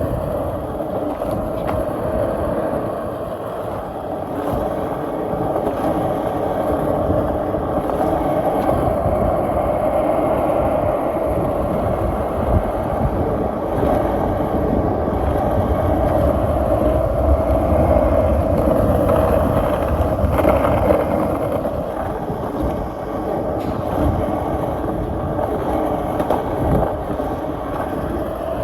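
Skateboard wheels rolling steadily over pavement, a continuous rumble that swells a little louder from about ten seconds in.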